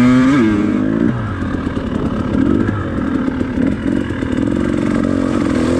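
Dirt bike engine revving up and dropping back in the first second, then running in choppy bursts of throttle with some clatter, as the bike climbs a rough, rocky trail line.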